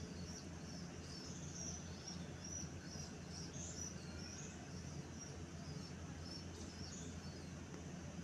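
Faint, irregular high chirping of small birds over a steady low hum.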